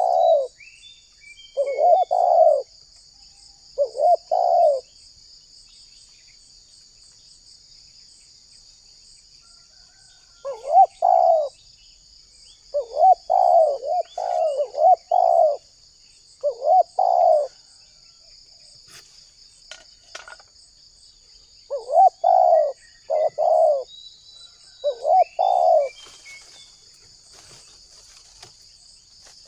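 Spotted dove (tekukur) cooing in repeated phrases of short, low coos. The coos break off for about six seconds early on, then resume. A steady high insect trill runs behind it, with a few faint chirps from other birds.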